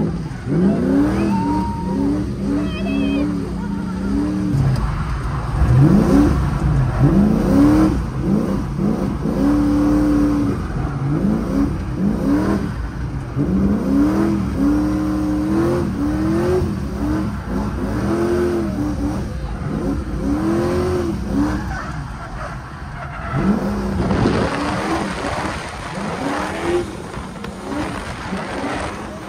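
Drift car engine revving up and dropping back again and again, about every second or two, as the car is driven through a drift run.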